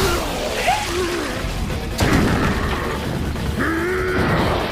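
Anime fight soundtrack: music under a low rumble, with a sharp booming impact about two seconds in.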